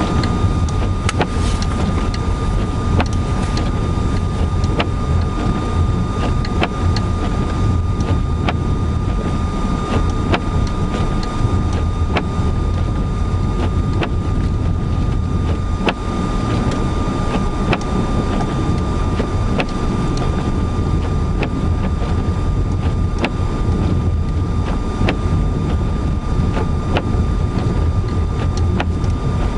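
Car driving through deep snow in a blizzard, heard from inside the cabin: a steady low rumble of engine, tyres and wind, with frequent irregular sharp ticks and a steady high tone above it.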